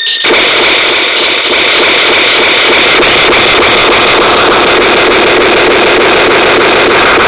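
Loud, steady engine-like noise that starts abruptly a moment in and holds unchanged, with a faint regular ticking through it.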